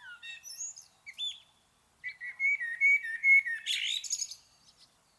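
Birds chirping and singing: several short gliding chirps, a brief pause, then a longer trilling song phrase from about two seconds in until past four seconds.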